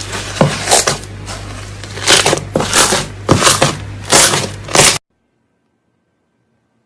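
Slime being squeezed and pressed by hand, making a series of crackling, crunching pops roughly every half second to a second. The sound cuts off suddenly about five seconds in.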